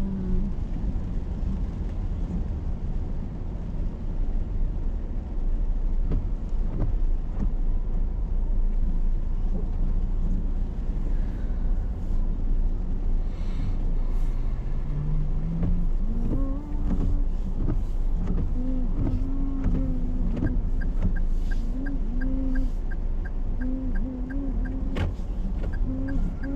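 Steady rumble and hiss inside a car's cabin while driving in heavy rain. About twenty seconds in, a regular ticking starts, two to three beats a second.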